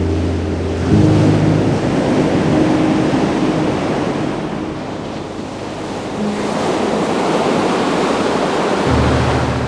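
Ocean surf: waves breaking and washing up a beach, swelling and easing in a steady hiss. Low held music notes sound under it near the start and again near the end.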